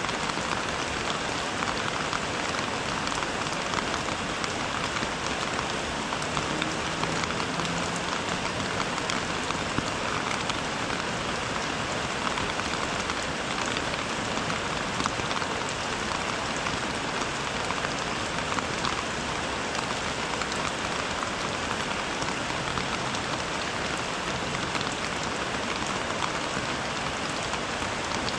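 Steady rain falling: an even hiss dotted with many small, sharp drop impacts.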